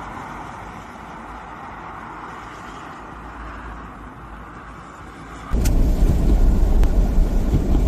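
Car traffic noise: a steady hiss of a vehicle on the road. About five and a half seconds in it cuts abruptly to a much louder deep rumble.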